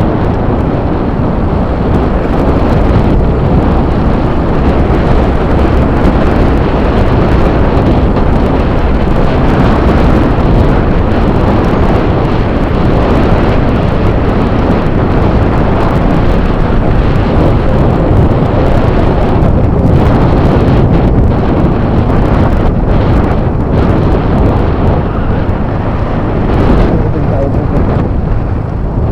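Loud, steady wind buffeting the microphone over the drone of a Yamaha Fazzio scooter on the move, the noise dipping briefly a couple of times.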